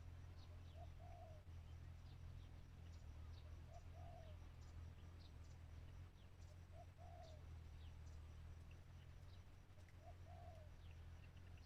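A spotted dove, a decoy in a cage, cooing four times about three seconds apart; each call is a short note followed by a longer one. Small birds chirp high and thin throughout, over a low steady hum.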